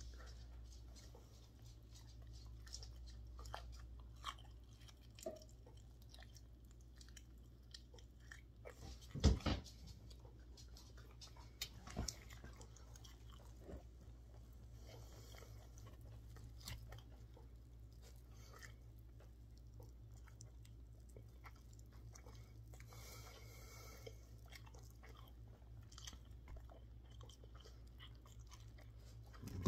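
Close-up eating sounds of someone chewing barbecue ribs and working the meat off the bone with the fingers: soft wet clicks and smacks scattered throughout over a steady low hum, with a louder knock about nine seconds in.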